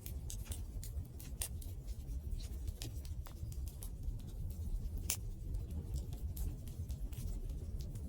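Wood campfire crackling, with irregular sharp pops and snaps a few times a second over a steady low rumble of the burning fire.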